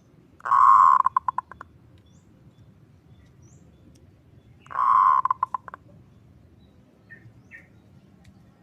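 Zebra dove (perkutut) calling twice. Each call is a held purring coo that breaks into a quick stuttering run of short notes and trails off, the kerot-style call used to stimulate and lure perkutut.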